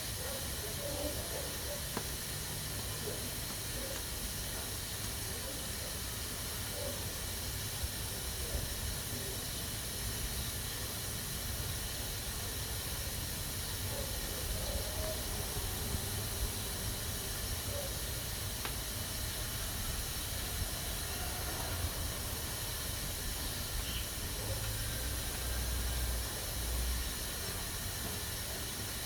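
Pressure cooker steadily hissing as steam escapes through its valve while it cooks under pressure, with a low rumble underneath that swells briefly near the end.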